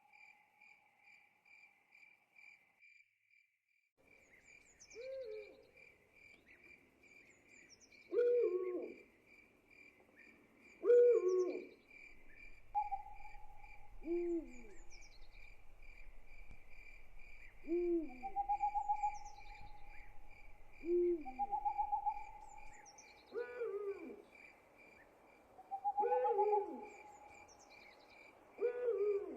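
Night ambience: insects chirping in a steady, rapid pulsing trill, with owls hooting. The hoots come every two to three seconds from about five seconds in, mixed with a few longer, held hooting notes.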